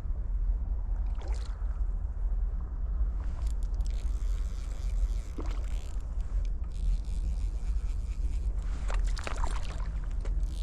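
Steady low rumble of a flowing river, heavy in the bass like water and wind on an outdoor microphone, with a few brief higher swishes about a second in, midway and near the end.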